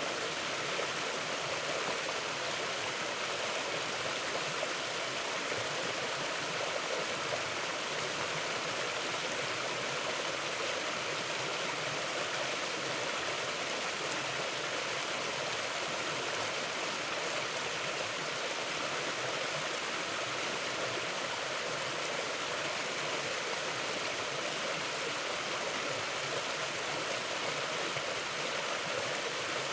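Mountain river or stream flowing steadily over rocks, a continuous rushing of water with no change in level.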